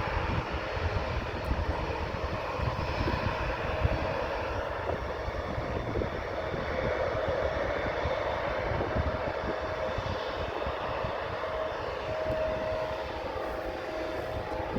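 Jet airliner engine noise: a steady rumble with a faint, even whine that comes through more clearly in the second half.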